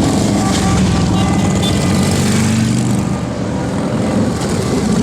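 Motorcycle engines running in a steady, loud low drone, with the pitch shifting slightly about two seconds in as the throttle changes.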